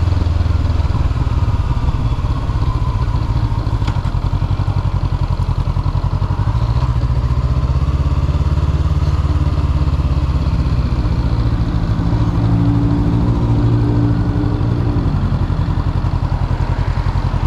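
Honda CB500F's parallel-twin engine running steadily while the motorcycle is ridden, heard from a GoPro carried on the ride.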